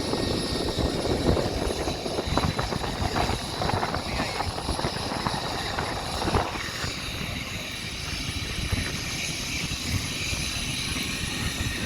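F-35 Lightning II jet engine rumbling steadily, a broad noisy roar with an irregular crackle.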